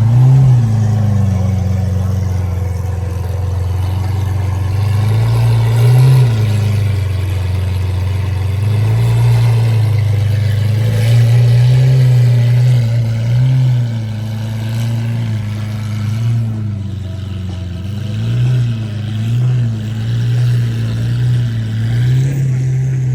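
A car engine running loudly, mostly steady, with a few small rises in pitch that sound like light throttle blips.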